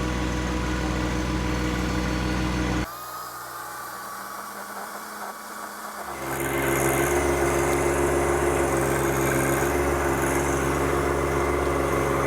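Engine running steadily, drops abruptly to a quieter hum about three seconds in, then rises back up louder around six seconds in.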